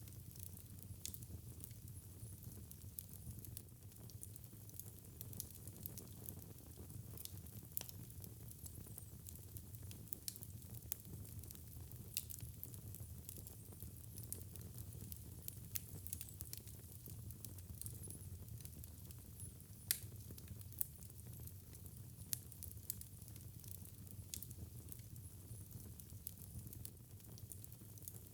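Fireplace fire burning with a steady low rumble and frequent small crackles and pops, and a louder snap about twenty seconds in.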